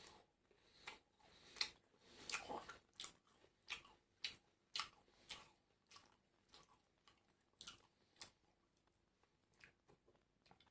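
Close-miked eating of crispy food, fried chicken and emping crackers: chewing with a string of sharp, irregular crunches, several of them loud.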